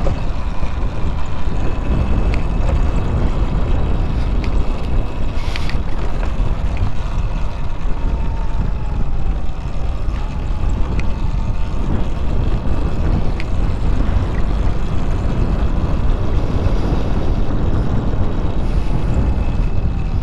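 Wind rushing over the microphone of a moving electric motorbike rider, a steady low rumble. A faint thin whine dips and rises in pitch around the middle.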